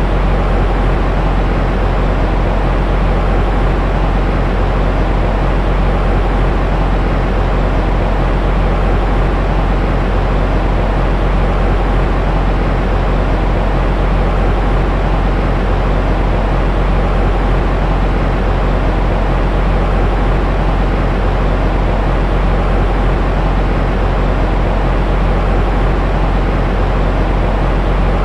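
Steady, unbroken white-noise track, a deep even hiss and rumble with no rhythm or change, heavier in the bass than in the treble. It is meant to mimic the sound of the womb and soothe a crying infant to sleep.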